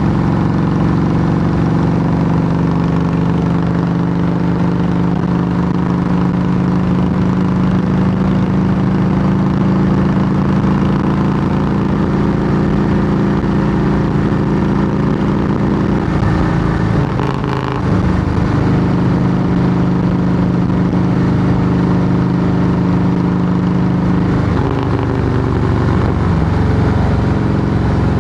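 Harley-Davidson Heritage Softail Classic's V-twin running loud through Samson true-dual fishtail exhaust pipes, the engine note holding steady. The throttle briefly eases off a little over halfway through, and the note shifts again near the end.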